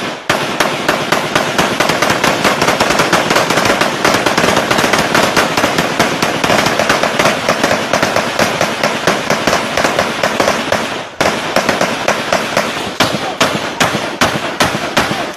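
A long, rapid string of sharp bangs that starts abruptly, falls silent for a moment about eleven seconds in, then goes on with more separate bangs before stopping near the end.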